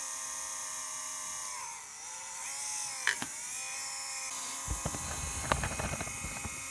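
Small cooling fan of a 12 V car power inverter running with a steady whine, a noise which the repairer takes for a fan clogged with dirt; the pitch dips briefly about two seconds in. A few clicks and knocks come in the second half.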